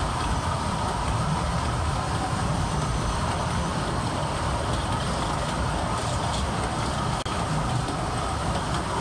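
Kurobe Gorge Railway narrow-gauge trolley train running steadily along its track, a constant rumble of wheels and carriages.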